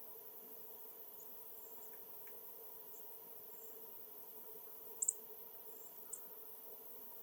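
Small bird's short, high chirps: a quick pair about five seconds in and a single one a second later, with a few fainter chirps before, over a faint steady hum and hiss.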